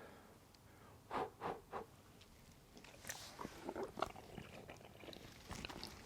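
Faint eating and handling sounds: three short soft chews about a second in, then a run of small clicks and scrapes.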